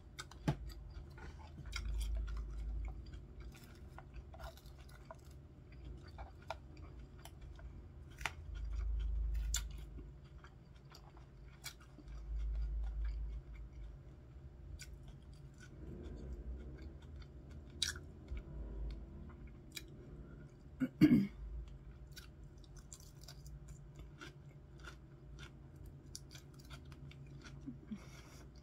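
A person chewing a chicken ranch salad with iceberg lettuce, many small wet mouth clicks and crunches, with a brief louder hum-like mouth sound about three-quarters of the way through.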